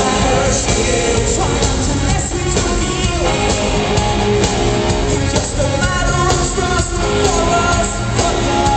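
Live rock band playing with a woman singing lead, drums, guitar and bass, recorded from the arena crowd, the sound dull above the highs.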